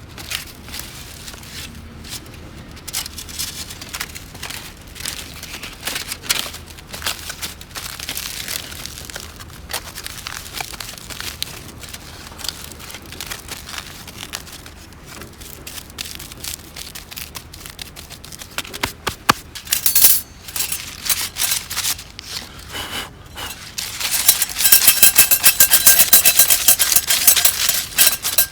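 Small wood fire crackling and snapping in a BUSHBOX LF stove, with irregular sharp pops that turn into a dense, louder crackle near the end.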